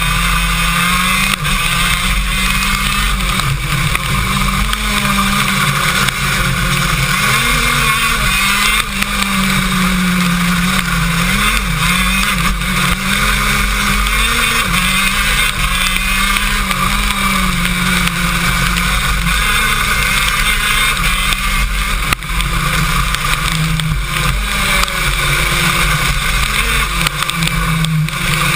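KZ2 shifter kart's 125 cc two-stroke engine running hard at close range, its pitch rising and falling through the lap, over a steady loud hiss.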